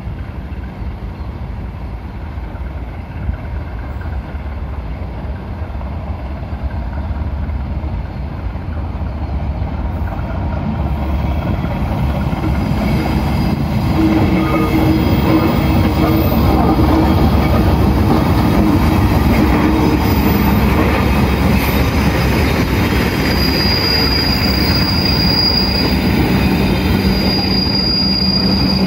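Diesel-electric locomotive hauling a passenger train, approaching and passing close by. The engine's rumble grows steadily louder over the first half, then holds as the coaches roll past with wheel noise on the rails. A thin, steady high wheel squeal joins in about two-thirds of the way through.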